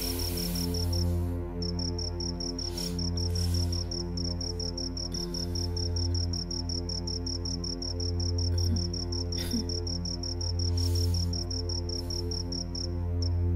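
A cricket chirping in a fast, even trill that breaks off briefly about a second in, then runs on and stops near the end, over a low steady hum.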